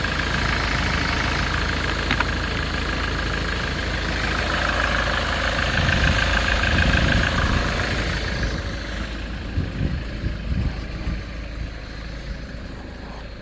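Ford Transit 2.4 TDCi four-cylinder diesel engine running at idle, louder for a few seconds near the middle. It then falls away and gets much quieter in the last few seconds, with a few knocks.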